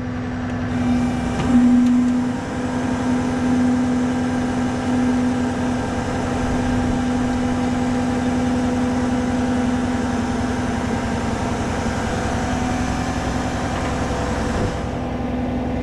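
Rollback tow truck's hydraulic winch and sliding bed running together, a steady mechanical hum with a higher hiss over it. The hiss drops away near the end while the hum carries on.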